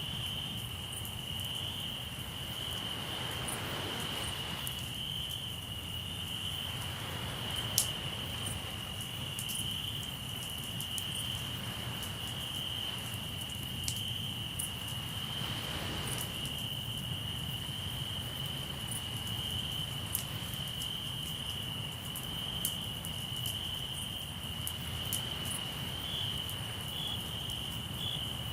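Crickets trilling steadily over a crackling wood campfire, with scattered sharp pops, one louder pop about 8 seconds in. Sea waves wash in softly a couple of times beneath them.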